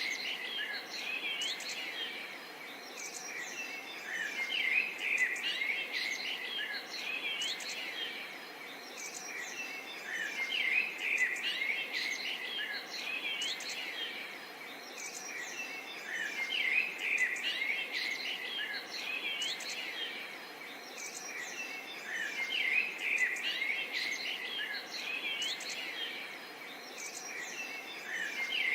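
A chorus of many songbirds chirping and twittering at once, the calls thickening and thinning about every six seconds.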